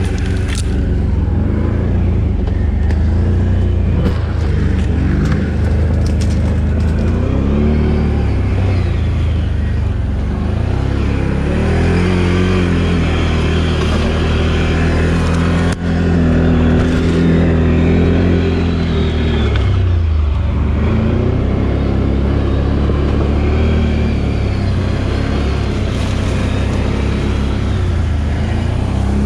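Can-Am Outlander 1000 XMR ATV's V-twin engine running under load off-road, its pitch rising and falling again and again with the throttle, with a few sharp knocks now and then.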